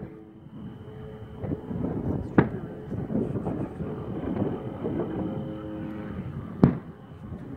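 Fireworks going off: two sharp bangs, one about two and a half seconds in and a louder one near the end, over a steady low rumble.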